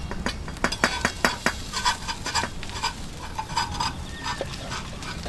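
Metal utensils clinking and scraping against dishes and a pot as food is stirred and served. There is a quick run of clinks in the first couple of seconds, then fewer.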